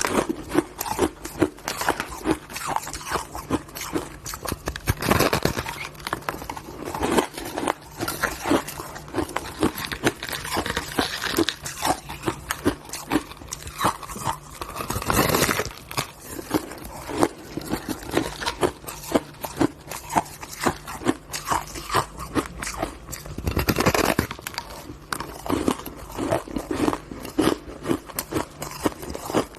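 Person biting and chewing crunchy ice close to the microphone: a steady run of crackling crunches, with louder bites every few seconds.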